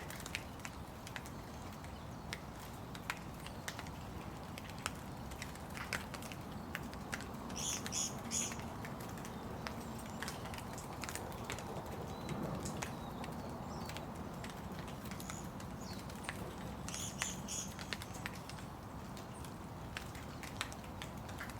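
Steady rain with drops pattering and tapping in sharp, irregular clicks. A bird gives short, high chirps twice: about eight seconds in and again later on.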